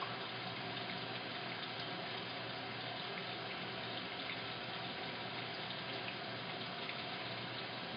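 Washing machine filling with water: a steady, unbroken rush of water flowing into the drum.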